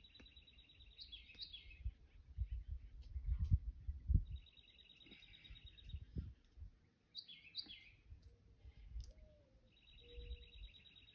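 A songbird singing a fast trill, three times, with a few sharper chirps between. Under it are low rumbling thuds, loudest about three to four seconds in.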